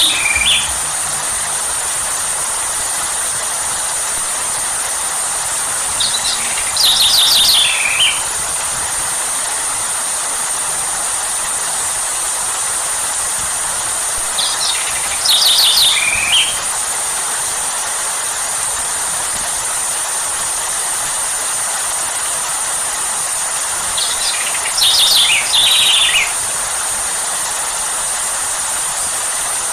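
Steady rain hiss, with a bird calling four times, about every eight or nine seconds: each call a short burst of quick descending chirps.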